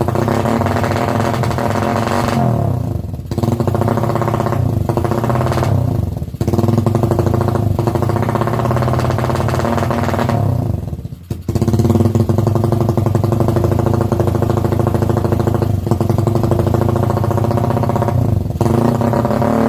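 Suzuki Raider drag bike's engine running loud through an aftermarket KOU exhaust pipe, held high under throttle. It drops off briefly about three, six and eleven seconds in, then picks straight back up.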